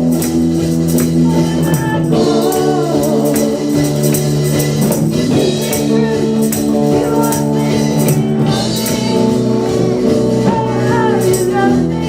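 Live worship band playing a praise song: sustained chords over a steady percussion beat, with some singing.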